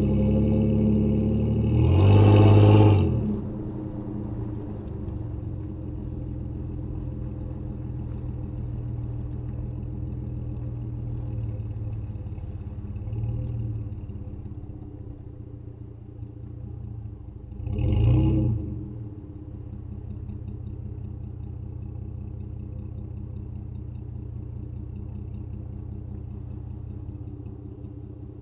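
2005 Jeep Grand Cherokee engine running steadily through a Thrush welded muffler, revved briefly about two seconds in and again about eighteen seconds in.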